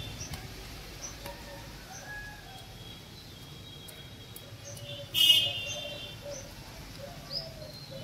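Garden birds chirping now and then, with one louder call about five seconds in.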